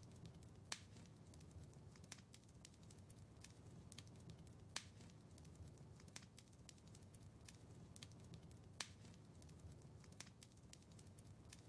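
Faint crackling of a wood fire in a fireplace: a steady run of small snaps over a low rumble of flames, with three louder pops at about 1, 5 and 9 seconds.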